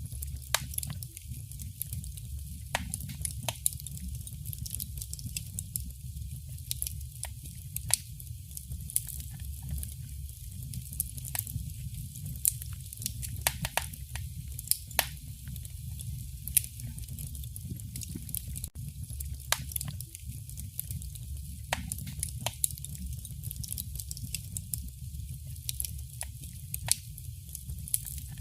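Wood fire burning in a fireplace, crackling with irregular sharp pops of varying loudness over a low steady rumble.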